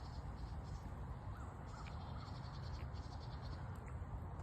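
Outdoor ambience: low wind rumble on the microphone, with a few faint short bird calls about a second and a half in and a faint high insect chirring.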